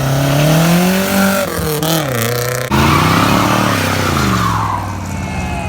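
Car engine revving hard, its pitch climbing and then dropping. About three seconds in a second, louder burst starts abruptly, and its pitch falls away toward the end.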